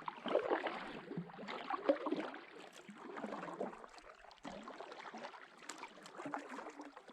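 Kayak paddle dipping and splashing in lake water, with water trickling and gurgling around the blade and hull in uneven swells.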